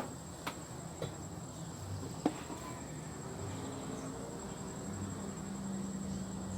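Steady high-pitched chirring of crickets, with a few light sharp clicks, the clearest about two seconds in.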